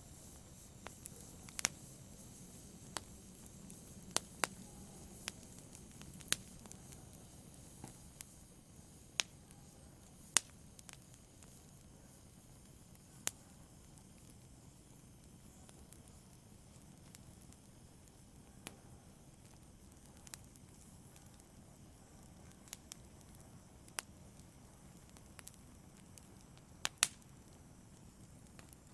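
Wood fire burning in a fireplace: a soft low hiss of flame with sharp, irregular crackles and pops, a few seconds apart, a double pop near the end being among the loudest.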